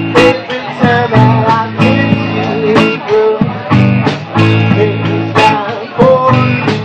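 Live blues-rock band playing: two electric guitars, one playing bending lead lines over low sustained chords, with drum hits at a steady beat.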